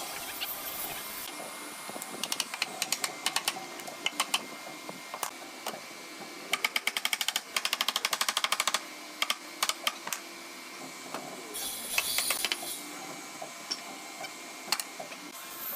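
Carpentry work sounds: bursts of rapid, sharp taps and clicks, with a fast run of them in the middle. There are short hisses about three-quarters of the way through and again at the end.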